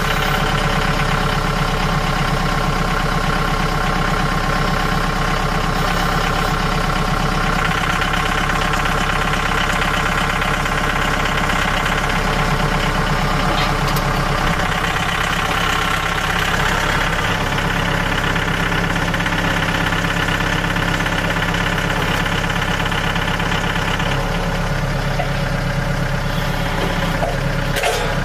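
Portable band sawmill's gas engine running steadily, its tone shifting slightly a couple of times, with a brief click near the end.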